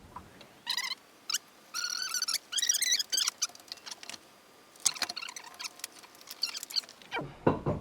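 Engine hoist and chain squeaking: a run of high, wavering metal squeaks, then light clicks and rattles of chain and metal parts as the suspended engine is shifted.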